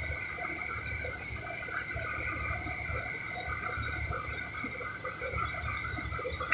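Strong wind buffeting the microphone on a boat in rough weather, an uneven low rumble over a steady drone and water noise.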